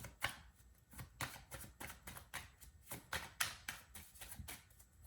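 Tarot cards shuffled by hand: a run of soft, irregular card taps and slaps, about three or four a second.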